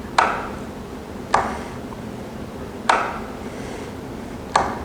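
An inline cord switch clicking four times, about a second and a half apart, as it toggles a set of LED shop lights on and off.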